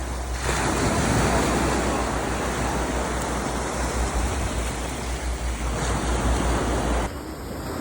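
Ocean surf washing in, with a low rumble of wind buffeting the microphone. The sound drops off suddenly about seven seconds in.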